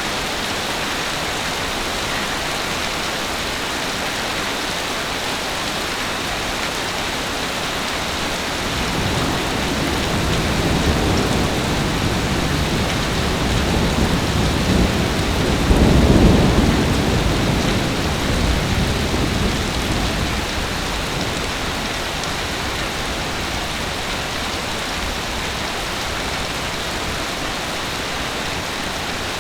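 Heavy rain falling with a steady hiss. A low rumble of thunder builds about a third of the way in, is loudest around the middle, and rolls away well before the end.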